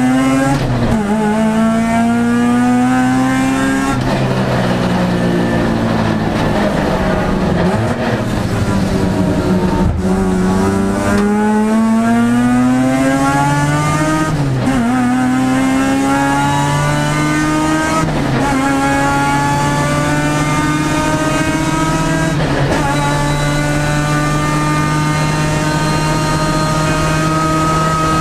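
Mazda RX7 race car's rotary engine heard from inside the cabin under racing load. Early on it drops in pitch and runs down as the car slows. After the middle it revs up hard through the gears, with three upshifts where the pitch climbs and falls back, then holds a steady high note near the end.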